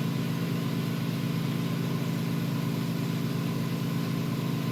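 Steady, constant-pitched motor hum running without change.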